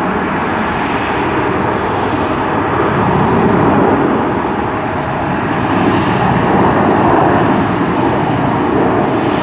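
Loud, steady engine noise of a passing airliner, a dense rumble that swells slightly a few times.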